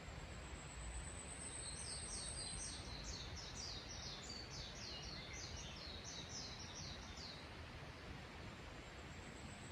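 A songbird sings a rapid run of high, quick repeated notes for about six seconds over a steady background hiss of the outdoors. A thin, very high steady tone is heard at the start, stops, and comes back near the end.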